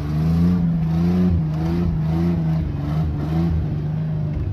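Pickup truck engine revving under load through a leaky, half-removed exhaust. The pitch climbs at the start, then surges up and down several times as the throttle works, and eases off near the end.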